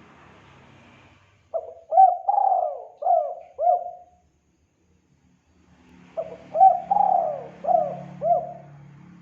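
Spotted dove (tekukur) cooing: two phrases of about five coos each, the middle coo drawn out longer, a couple of seconds apart. This is a lure call meant to draw wild doves to answer.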